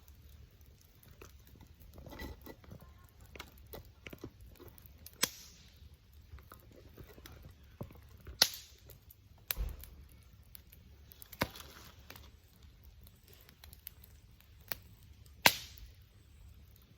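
Wood campfire crackling: a scatter of faint ticks with about five sharp, loud pops from the burning wood.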